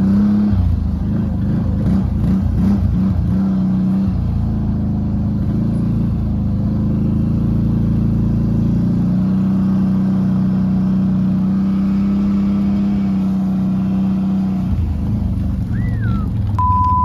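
Quad (ATV) engine running steadily under load, towing a ski-fitted dirt bike through thick grass. A brief falling whistle and a short high beep come near the end.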